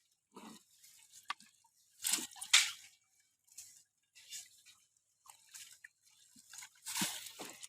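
Irregular splashes and drips of water, the loudest a few seconds in and again near the end.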